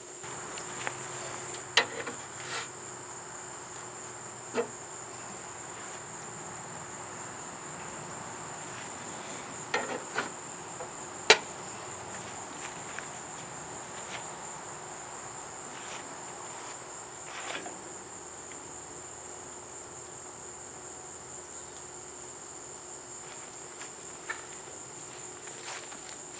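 Steady high-pitched insect chirring, as of crickets, with a handful of sharp knocks scattered through it, the loudest about eleven seconds in.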